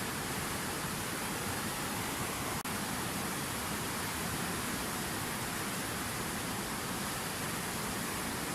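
Fountain water falling and splashing in a steady, even rush, with a split-second dip about two and a half seconds in.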